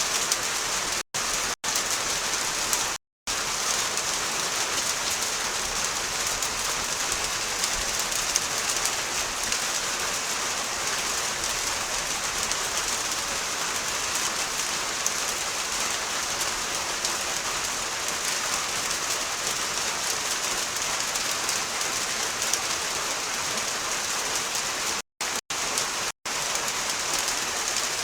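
Steady rain falling, an even hiss of drops on surfaces. The sound cuts out completely for a moment a few times: briefly near the start and again near the end.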